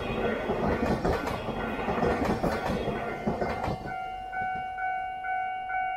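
Passenger train cars rolling past over the rails, their wheels clacking at the rail joints. The train noise ends about four seconds in, leaving the level crossing's warning bell ringing, a repeated ding about twice a second.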